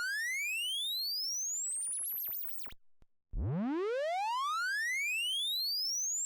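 Test-tone sine sweep driven through the Waves BB Tubes tube-saturation plugin with 4x upsampling. It rises steadily from low to very high pitch, with added harmonics riding above it. Near the top of the sweep, chirping aliasing tones fold back, and the sweep stops about two and a half seconds in. A second identical sweep starts just after three seconds and climbs again.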